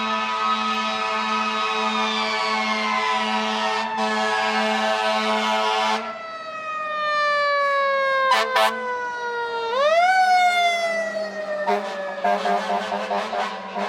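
Fire engine siren wailing: a long pitched wail sliding slowly down in pitch, a couple of short horn blasts about eight seconds in, then the wail winding quickly up again and slowly falling, with choppy broken blasts near the end.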